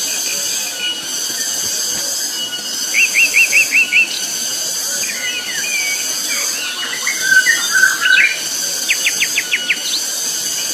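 Cicadas droning in a continuous, very loud, shrill high buzz. Birds call over it, including a quick run of about six rising notes and a rapid series of notes near the end.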